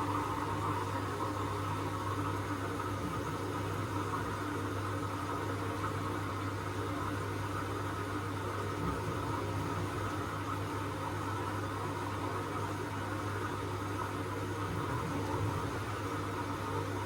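Washing machine running with a steady mechanical hum: a strong low drone with a whirring tone above it, unchanging throughout.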